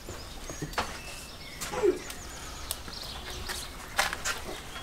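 Birds chirping in the open air, mixed with scattered sharp clicks and knocks, and one short falling squeak a little under two seconds in.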